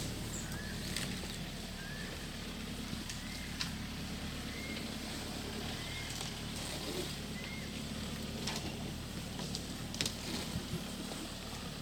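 Short rising bird chirps, repeated every second or so, over a steady low rumble and a few scattered clicks.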